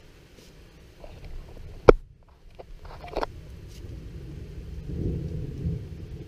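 Thunder from a nearby lightning strike: a sharp crack about two seconds in, a few crackles, then a low rumble building near the end.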